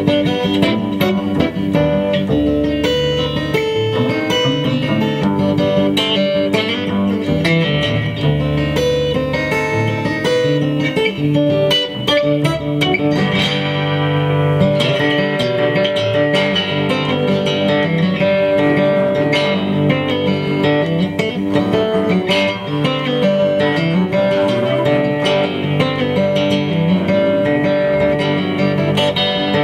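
Live instrumental Americana band music, with picked acoustic guitar to the fore over long held notes.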